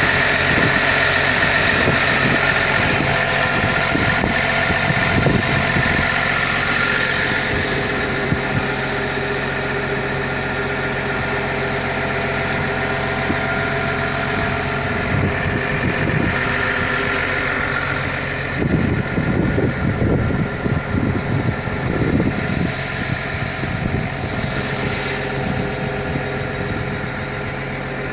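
Diesel engine of a Caterpillar 320 long-reach excavator running steadily, with irregular knocks and clatter that come thickest about two-thirds of the way through.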